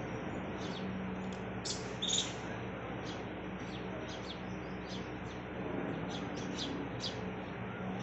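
Small birds chirping: short high chirps, a few each second, with a louder pair about two seconds in, over a steady low hum.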